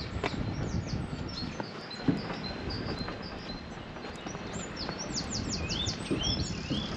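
Small songbirds chirping and twittering over a steady outdoor hiss, with a quick run of sharp notes and a few rising whistles near the end. A walker's footsteps sound now and then.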